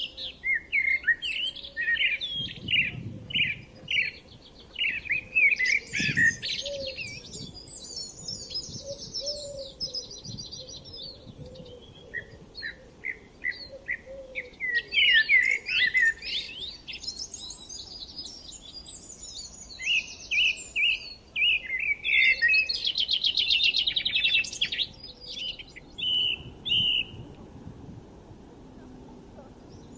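Small birds chirping and singing: runs of short repeated notes and fast trills, coming in bursts with brief pauses between.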